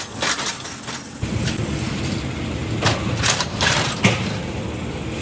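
A motor starts up about a second in and keeps running with a steady low rumble, with several sharp clicks and knocks over it.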